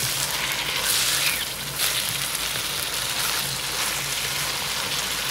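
Sliced onions, green chillies and cumin seeds sizzling steadily in hot oil in a wok, stirred with a wooden spatula.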